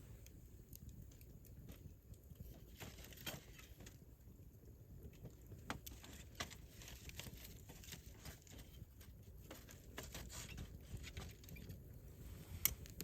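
Wood campfire crackling, with scattered sharp pops, the loudest near the end, over a low steady rumble.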